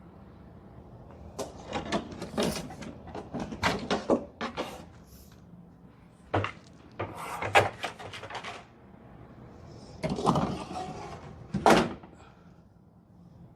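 Equipment and supplies being handled and set down: irregular knocks, clunks and rattles in clusters, with a couple of short pauses.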